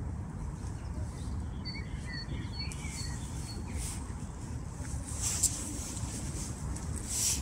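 Outdoor ambience: a steady low rumble with a small bird chirping, a string of short high chirps about two seconds in, and a couple of brief rustles later on.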